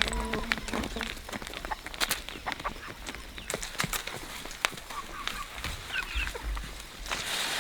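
Chickens clucking now and then among many light taps and scratching sounds.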